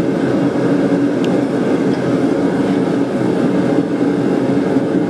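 Blacksmith's forge running: a steady, loud, low rushing noise with no breaks.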